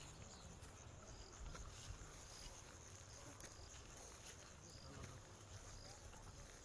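Near silence: faint outdoor ambience with a low rumble and scattered short, high chirps.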